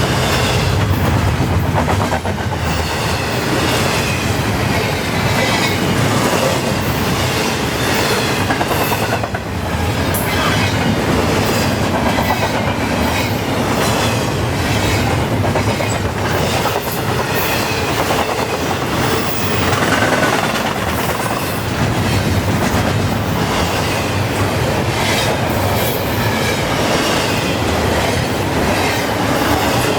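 Intermodal well cars of a long freight train rolling past at about 39 mph: a steady rumble of steel wheels on rail, with clickety-clack over the rail joints and high-pitched wheel squeal coming and going.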